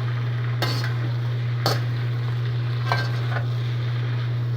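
Chicken breast sizzling in basil butter in a pan as it is stir-fried, with a utensil knocking and scraping against the pan about four times. A steady low hum runs underneath.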